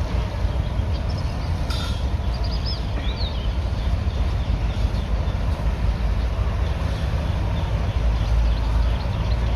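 Diesel engine of earthmoving machinery running steadily with a heavy low rumble, with a few brief high chirps about two to three seconds in.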